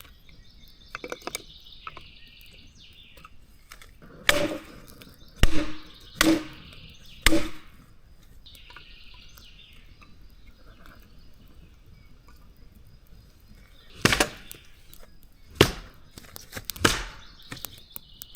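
Wood being chopped: seven sharp strikes, four in quick succession and then three more after a pause. A bird sings faintly in between.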